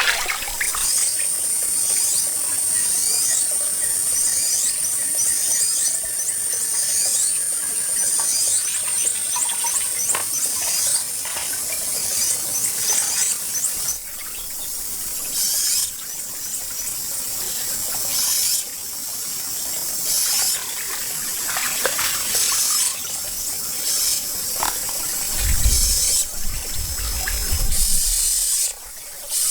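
Pond water splashing and trickling in repeated bursts as hands work through it. A thin, steady high-pitched whistle runs through the first half, and a brief low rumble comes near the end.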